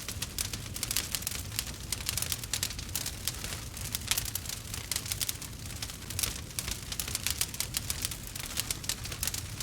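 Burning wood crackling and popping steadily, with dense irregular snaps over a low, steady rumble of the fire.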